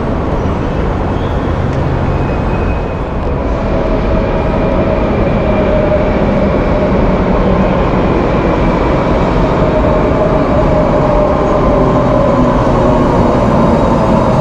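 Electric commuter train running with a loud, steady rumble; a whine comes in about three to four seconds in and grows stronger.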